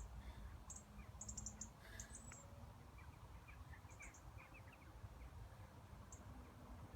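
Faint, very high-pitched bird chirps in short clusters over a low rumble.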